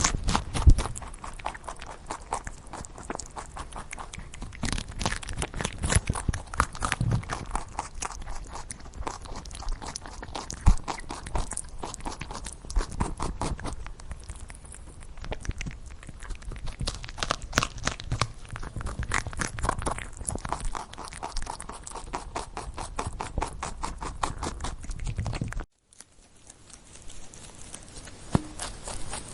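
Rabbit chewing, a fast run of crunching clicks that cuts off abruptly near the end and then resumes more quietly.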